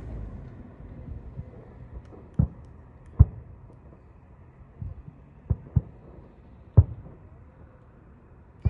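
Fireworks shells bursting in the sky: a series of deep booms at irregular intervals, about half a dozen, the loudest a little after three seconds in and near the end.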